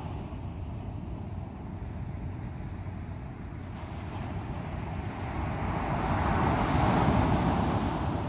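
Waves breaking on the shore of the East Sea: steady surf noise with one wave swelling up and crashing about two-thirds of the way through, then easing off.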